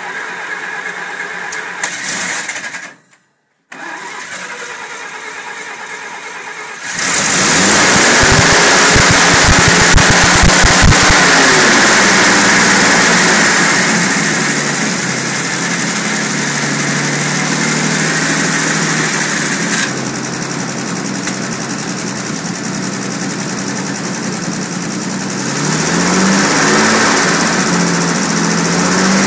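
Dodge's Mopar flathead straight-six being cranked by its starter, then firing up about seven seconds in. It runs unevenly at first, then settles into a steady run, and is revved up briefly near the end.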